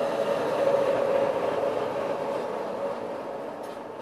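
Railway noise as two trains pass close alongside each other: a rumble with a steady whine running through it, swelling to its loudest about a second in and then fading away.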